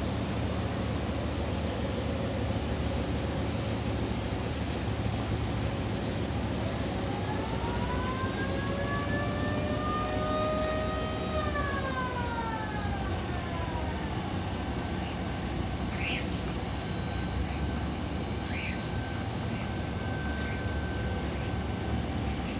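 A siren-like wail over a steady low rumble: one pitched tone with overtones climbs slowly for about three seconds, holds, then drops away over about two seconds.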